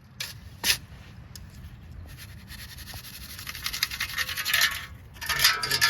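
A hand digging tool scraping and scooping through playground ground while digging out a metal detector target. A couple of sharp strokes come first, then quick repeated scraping that grows louder toward the end.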